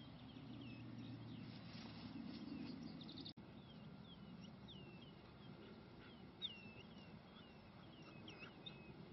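Faint birdsong: many short chirps and downward-sweeping whistles repeated throughout, over a low rumble that cuts off abruptly about a third of the way in.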